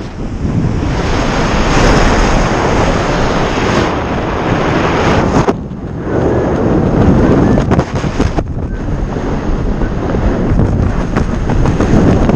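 Wind rushing and buffeting across the microphone during a parachute descent, loud and gusty, dipping briefly about halfway through.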